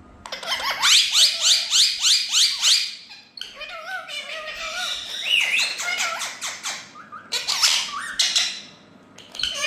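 Indian ringneck parakeets calling: a fast run of repeated shrill calls, about four a second, then mixed chattering and squawking with short pauses.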